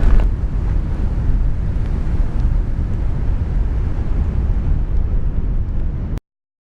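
Strong storm wind buffeting the microphone, a loud, steady low rumble, that cuts off abruptly about six seconds in.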